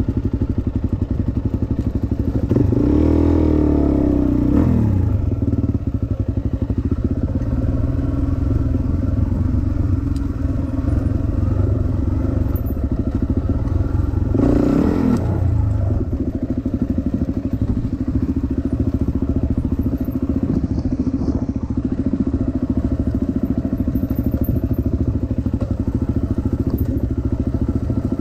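Dirt bike engine running steadily while being ridden, revving up and back down twice: a few seconds in and again about halfway.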